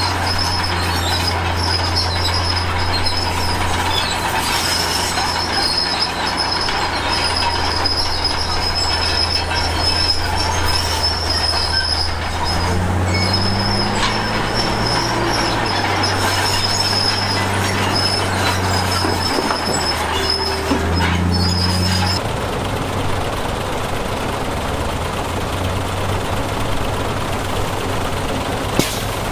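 Komatsu D53P crawler bulldozer working: its diesel engine runs with a steady high-pitched squeal from the steel tracks, and the engine note shifts a few times. About 22 seconds in, the squeal stops and the sound changes.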